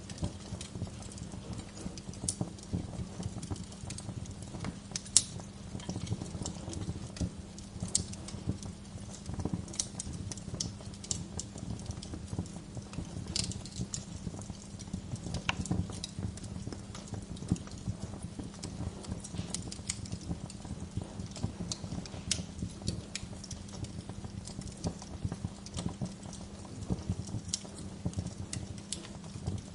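Bonfire crackling: a steady stream of sharp pops and snaps from burning logs over a low, even rumble of the flames, with one louder pop about five seconds in.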